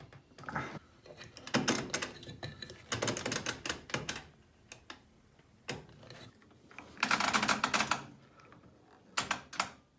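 Old washing machine's rotary program selector dial clicking as it is turned through the programs, in several quick runs of clicks with a few single clicks between them.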